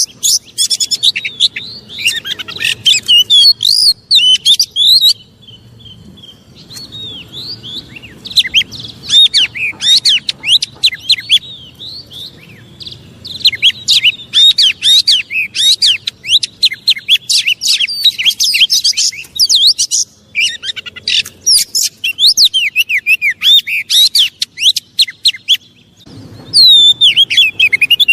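Oriental magpie-robin (kacer) singing an agitated song: rapid, varied chirps and whistles in loud bursts, with a few short pauses. It is the kind of song used as bait to rouse another kacer.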